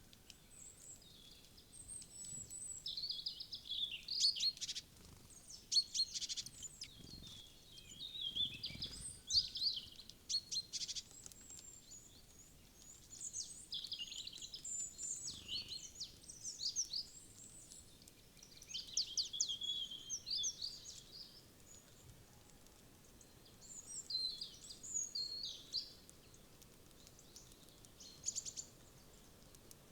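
Small woodland birds chirping and calling in irregular high-pitched bouts, some with quick runs of repeated notes, separated by short pauses.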